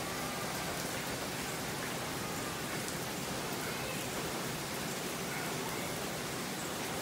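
Steady rain falling on a wet tiled driveway, an even hiss of rain without pause.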